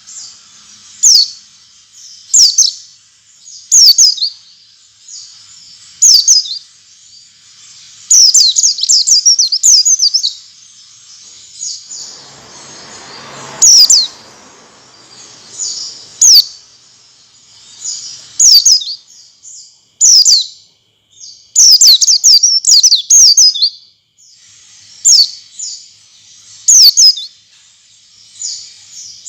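White-eye (pleci) chirping: sharp, high, downward-sweeping chirps repeated every second or two, with faster runs of chirps now and then. A short burst of rustling noise comes near the middle.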